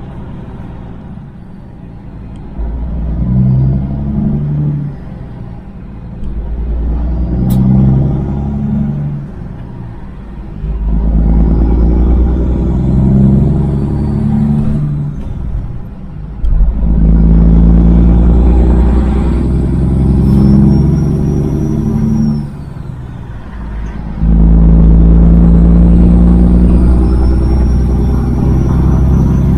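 Kenworth W900 semi truck's diesel engine pulling through the gears: a loud, low engine note that falls away briefly four times as gears are shifted, then comes back under load.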